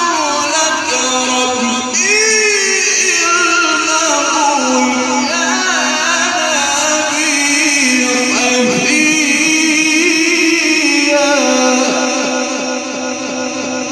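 Male Quran reciter's voice drawing out a long, ornamented melodic phrase in Egyptian tajweed style, amplified with heavy echo. It fades toward the end.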